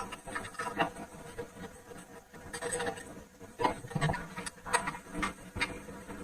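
Irregular light clicks, taps and scrapes of handling work, with no engine running.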